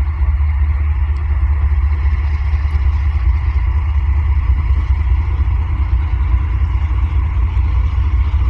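Steady, loud, low engine rumble with faint steady whining tones above it.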